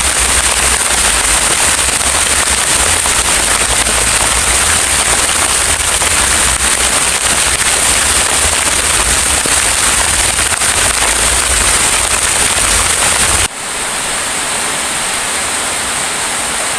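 Heavy rain pouring down in a dense, crackling patter, with a low rumble of wind on the microphone. About thirteen seconds in, the sound cuts abruptly to a lighter, steadier rush of rain without the rumble.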